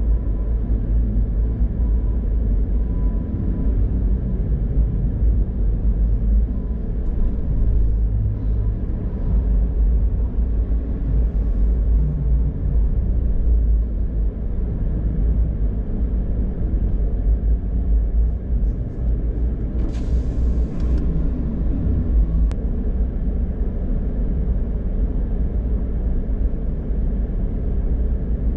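Car driving, a steady low rumble of road and engine noise. About two-thirds of the way through there is a brief hiss lasting about a second, followed shortly by a single click.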